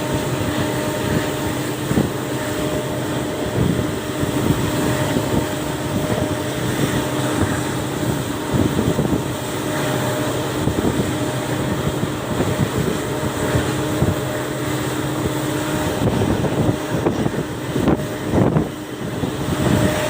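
WDP4B diesel locomotive's EMD 710G3B two-stroke engine running steadily, a constant rumble with a steady hum over it.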